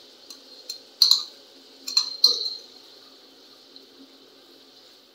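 Onion and tomato tadka with green chillies sizzling in hot oil while a ladle stirs it, knocking against the pan three times in the first few seconds.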